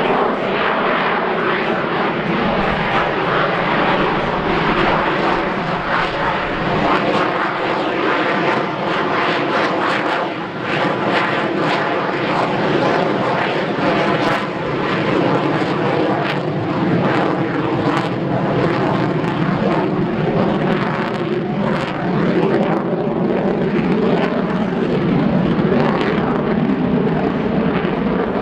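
The F-22 Raptor's twin Pratt & Whitney F119 afterburning turbofans in a loud, continuous jet roar during a low aerobatic pass, with shifting tones and sharp crackles now and then.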